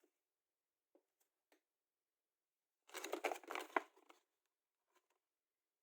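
Plastic packaging crinkling for about a second, a little past the middle, with a couple of faint ticks before it.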